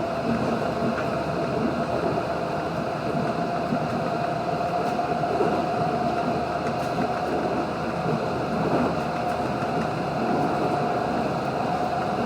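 Interior running noise of an Adelaide Metro 3100 series diesel railcar under way: a steady rumble of engine and wheels on rail, with a steady whine that rises slightly near the end.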